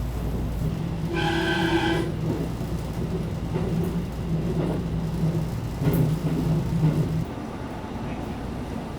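Electric local train running, heard from inside the carriage: a steady rumble with a constant low hum that stops about seven seconds in. About a second in, a brief ringing tone sounds for about a second.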